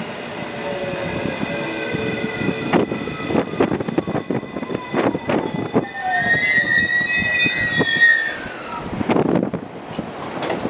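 JR West 223 series electric train braking into a station: the traction motors' whine falls in pitch, the wheels knock irregularly, and a high brake or wheel squeal rises and bends for about two seconds past the middle.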